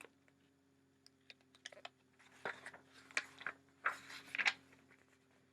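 Soft, scattered clicks and rustles from hands handling the book, over a faint steady hum.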